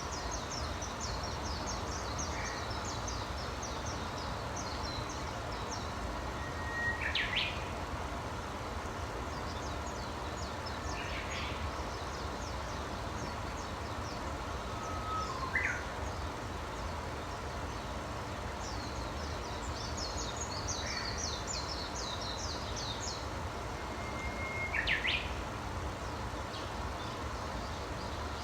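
Wild birds singing: three long passages of rapid, high twittering and four short, louder calls that each sweep upward, spaced several seconds apart. A steady low background noise runs underneath.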